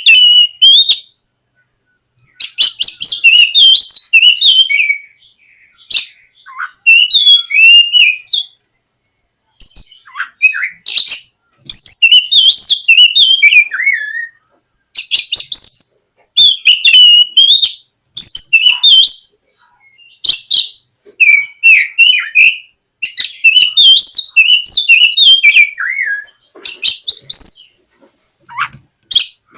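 Oriental magpie-robin (kacer) singing loud, rapid phrases of varied whistled and chattering notes that sweep up and down in pitch. The phrases last one to three seconds, with short pauses between them.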